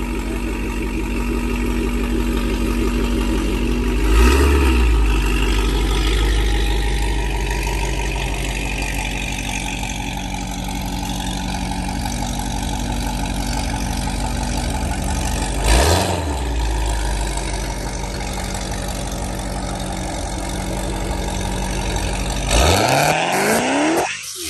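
Dodge Hellcat's supercharged 6.2-litre HEMI V8 running at a steady cruise, with a brief thump about four seconds in and again about sixteen seconds in. Near the end the engine note climbs quickly as the car accelerates hard.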